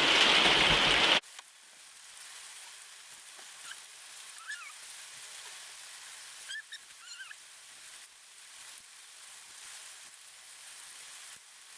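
A loud, even rushing noise stops abruptly about a second in. After it comes a faint, steady hiss of outdoor ambience with a few short bird chirps scattered through it.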